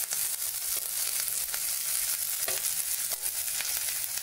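Sliced onions and diced green capsicum sizzling steadily in hot mustard oil in a metal kadai, with a steel spoon scraping and clicking against the pan now and then as they are stirred.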